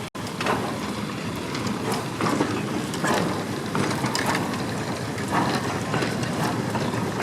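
Early-railway steam train running on the track: a steady rumble with irregular clanks and clicks from the running gear and the rails.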